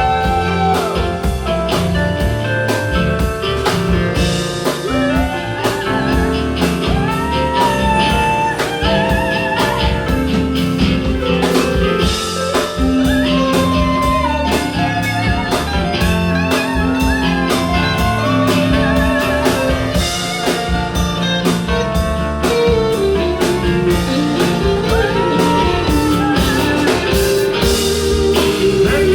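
A live band plays a blues-rock instrumental break: a lead guitar plays bending, wavering notes over a steady drum kit beat and bass.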